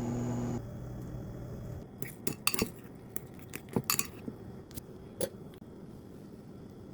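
A steady hum cuts off under a second in, then a scattering of sharp, irregular clinks of a utensil against dishes.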